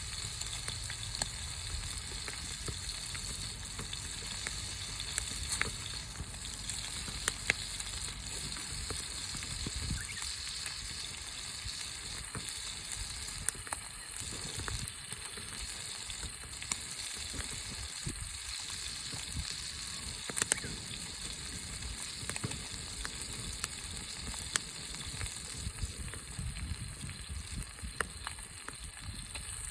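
Wood fire burning, crackling with scattered sharp pops over a steady hiss.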